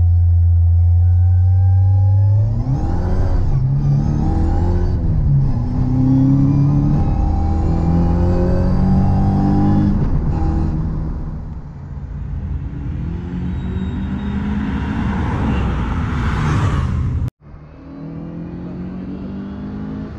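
Heard from inside the cabin, a Ford MK2 Escort RS2000's 2.1-litre Pinto engine on Weber 45 carburettors runs at a steady low note, then accelerates hard through the gears, its revs rising and dropping back at each shift. Near the end the sound cuts abruptly to traffic on a road.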